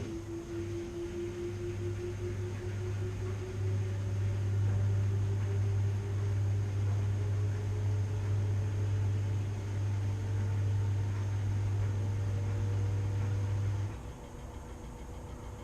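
Washing machine running, with a steady low hum and a fainter whine that slowly rises in pitch. The hum drops away about two seconds before the end, leaving the machine quieter.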